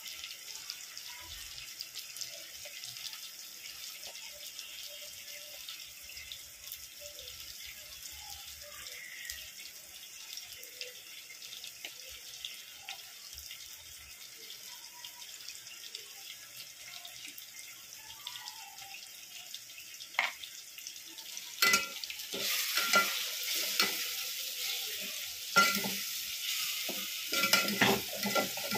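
Onions, tomatoes and spices sizzling in hot oil in a metal pot, a steady frying hiss. About two-thirds of the way in, a steel spatula starts stirring and scraping, with louder bursts of sizzle and clinks against the pot.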